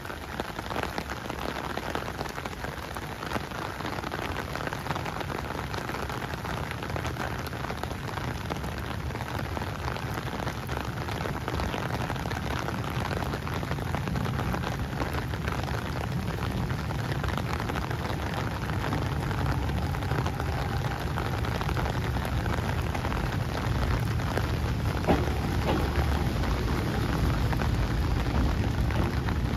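Steady rain falling and pattering on surfaces. Under it, an Izuhakone Railway 5000 series electric train's low rumble grows gradually louder through the second half as it pulls into the station.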